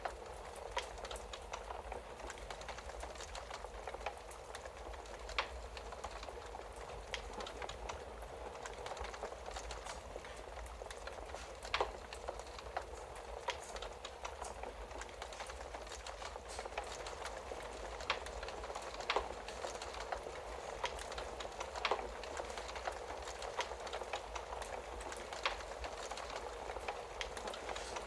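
Wood fire crackling steadily in a fireplace, with sharper pops every few seconds.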